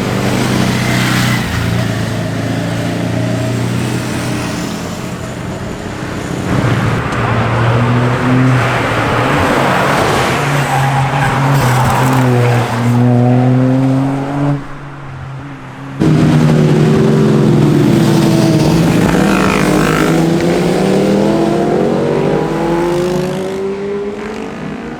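Sport motorcycle engines revving hard as bikes ride past, the pitch climbing and dropping with throttle and gear changes. About sixteen seconds in, a brief lull ends with a sudden loud burst of engine noise.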